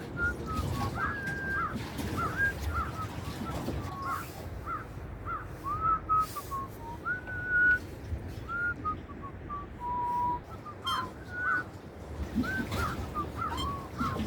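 A songbird singing a continuous run of short whistled notes, some rising, some falling and some held briefly, over a low outdoor rumble of wind and water.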